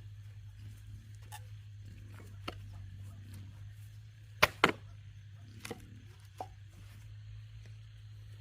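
Scattered sharp knocks, the loudest a pair close together about four and a half seconds in, over a low steady hum.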